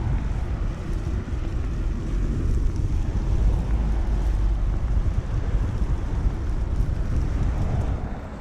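Wind buffeting the camera's microphone in a snowstorm, a loud uneven low rumble that eases off near the end.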